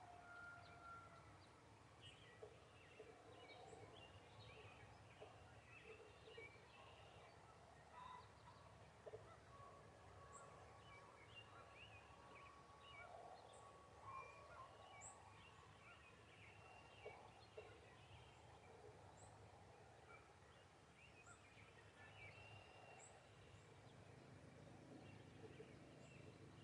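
Faint springtime bird calls: many short scattered chirps and calls, some very high and thin, over a quiet low background hum.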